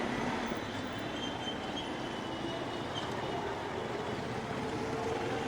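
Street traffic noise: a steady hum of vehicles moving along a city road.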